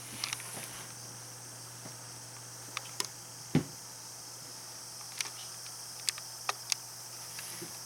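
Scattered light clicks and taps, with one duller thump about three and a half seconds in, from kittens playing with a basket and a cat teaser toy, over a steady low hum and hiss.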